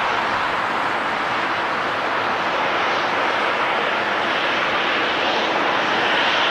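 Jet airliner engine noise, a steady rushing sound that grows slightly louder and brighter toward the end.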